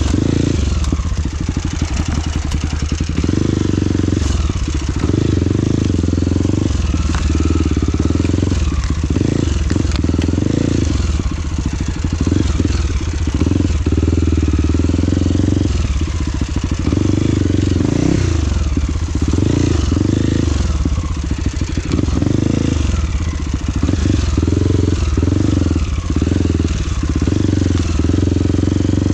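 Trail motorcycle engine running under constantly changing throttle, its note dropping and picking up again every second or so as it is ridden over rough ground.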